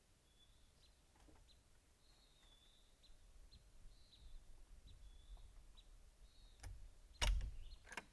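Small birds giving short chirps, repeated every second or so, over faint outdoor quiet. About seven seconds in there is a loud knock, and a sharp click follows just before the end.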